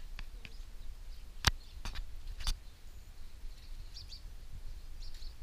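A few sharp clicks or knocks in the first half, the loudest about a second and a half in, then faint short bird chirps over a low rumble.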